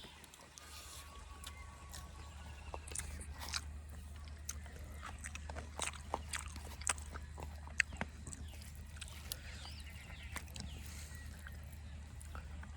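Someone eating a meal of rice by hand: quiet chewing with scattered small clicks and ticks.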